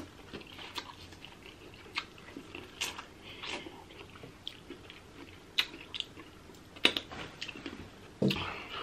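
Close-miked chewing and biting into seafood-boil food, with wet smacking and scattered sharp clicks. The loudest clicks come about seven seconds in and again near the end.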